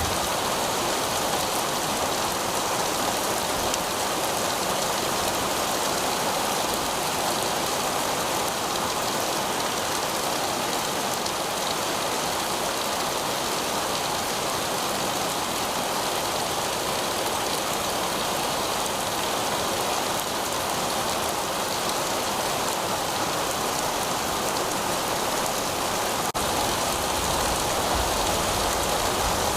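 Heavy rain falling steadily on pavement, an even hiss of countless drops. A faint low rumble comes in under it over the last few seconds.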